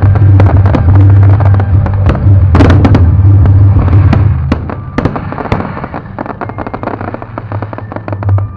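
Fireworks going off in a rapid barrage of cracks and pops over a heavy low rumble. After about four and a half seconds the barrage thins out and grows quieter.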